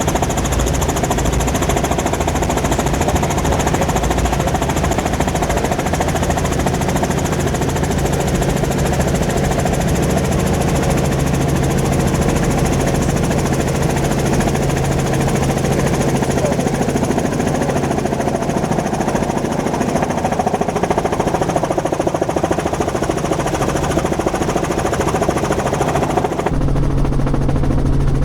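Helicopter in flight: steady rotor and engine noise with a fast, even chopping pulse. Near the end the higher hiss drops away suddenly, leaving the low rotor sound.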